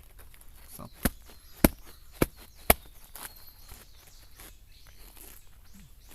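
Four sharp cracks at uneven intervals in the first three seconds, then scattered faint ticks and snaps over a light outdoor background.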